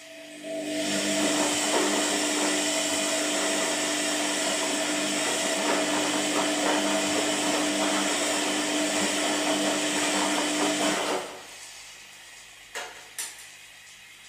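An electric appliance motor runs with a steady hum and hiss, starting about half a second in and stopping suddenly after about ten seconds. Two sharp clicks follow near the end.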